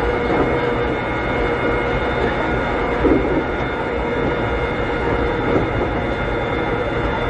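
Inside a Keikyu old 600-series electric car at speed, heard from a seat behind the cab: steady rolling noise with the steady whine of its Toyo Denki traction equipment. Rail-joint knocks come through about three seconds in and again near five and a half seconds.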